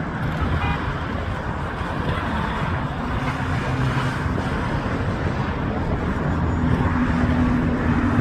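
Steady engine rumble with a noisy wash over it. A low, steady hum comes in about three seconds in and grows stronger near the end.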